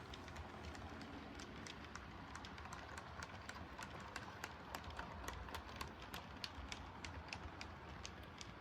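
HO-scale model passenger train running slowly past: a faint hum from the 4-6-4 Hudson's cab-mounted motor, with many light wheel clicks on the track, several a second.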